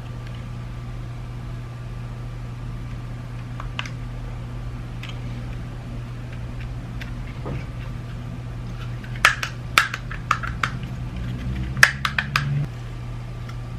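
Sharp plastic clicks and taps from handling and snapping together the parts of a BMW iDrive controller during reassembly, a quick run of them in the second half, over a steady low hum.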